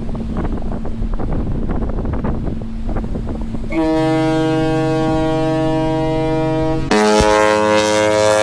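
Wind buffeting the microphone over a low rumble, then a cruise ship's horn sounds about four seconds in: a long, steady, loud blast that shifts to a different pitch about three seconds later and keeps going.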